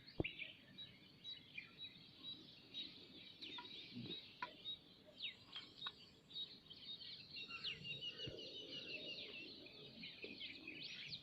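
Faint chorus of small birds: many short, high chirps and whistles, overlapping throughout.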